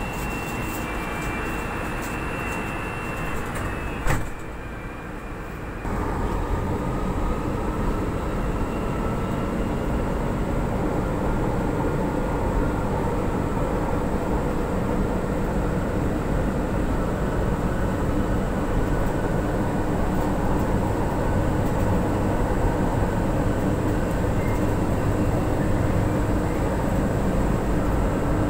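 Inside an MRT-3 train car: a steady high tone sounds, then the sliding doors shut with a sharp thud about four seconds in. About two seconds later the train pulls away and runs with a steady rumble and a faint, slowly rising motor whine.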